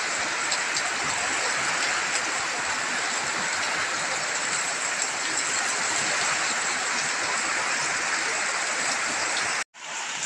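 Heavy rain pouring down in strong wind: a steady rushing hiss that cuts out for a moment near the end, then resumes.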